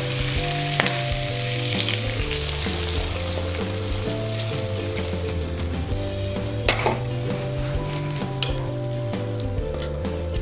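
Coconut milk sizzling as it hits a hot wok of frying spice paste, smoked stingray and chillies. The hiss is loudest in the first few seconds, then settles to a quieter frying sound, with a few scrapes of a slotted plastic spatula against the pan.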